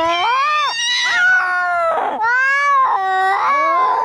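Domestic cats caterwauling in a fight: long, wavering yowls that rise and fall in pitch, broken about halfway by a harsh, rasping screech. These are the warning cries of angry cats squaring off.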